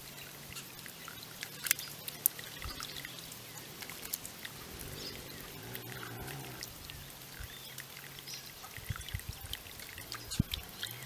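Water from a bird-bath fountain pouring and trickling, with small irregular splashes and a few short, faint bird chirps, over a low steady hum.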